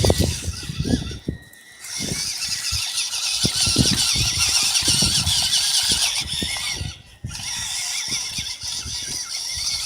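High-pitched whine of the Fayee FY002A RC truck's small electric motor and gears as it drives, the pitch wavering with the throttle. It stops briefly about a second and a half in and again around seven seconds. Short low knocks from the truck bouncing over the ground run underneath.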